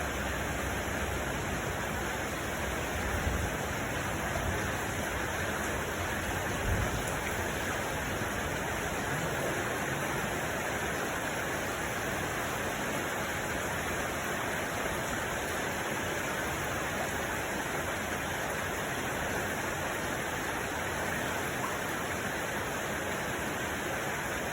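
Steady hiss of heavy rain, with a few low rumbles in the first seven seconds or so.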